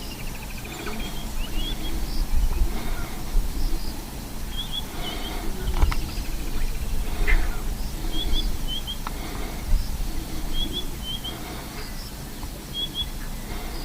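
A bird calling over and over, short high chirps in pairs repeating about every two seconds, over a steady low rumble.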